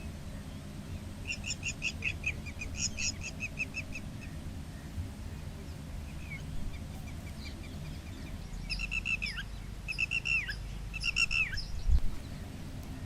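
A bird calling: a fast run of repeated chirps, then after a pause several short chirping phrases that end in falling notes, over a steady low rumble.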